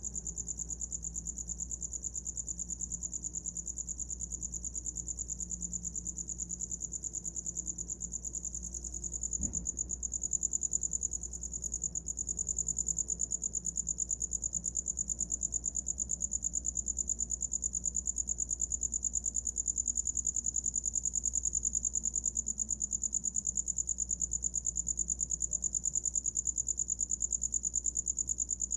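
A cricket calling: a continuous high-pitched trill of very fast, even pulses that never pauses. About nine seconds in there is a single soft knock, and the trill is a little louder after it.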